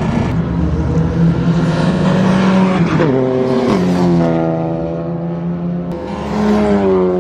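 Race car engine running at high revs; its pitch drops sharply about three seconds in, then climbs again.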